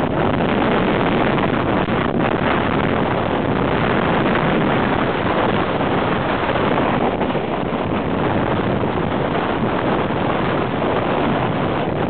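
Strong gusty wind buffeting the microphone: a loud, steady rushing noise with no breaks.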